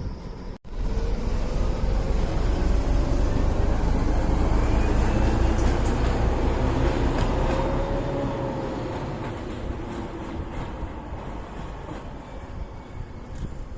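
Train passing close by on the rails: a heavy low rumble that sets in abruptly just after the start, is loudest around the middle with a faint whining tone above it, and slowly fades away.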